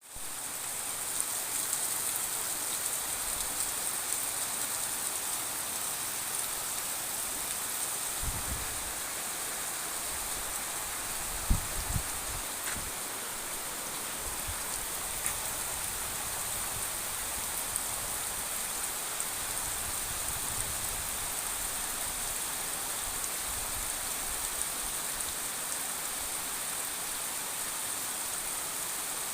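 Heavy rain pouring down steadily, a dense hiss of drops striking surfaces, with a couple of low thumps about a third of the way in.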